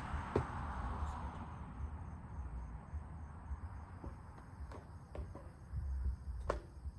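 Outdoor ambience: a steady high-pitched insect hum over low rumble, with a few light knocks, the sharpest near the end.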